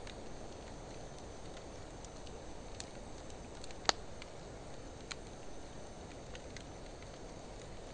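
Wood campfire of driftwood burning with a steady low rush and scattered crackles. One sharp pop stands out just under four seconds in.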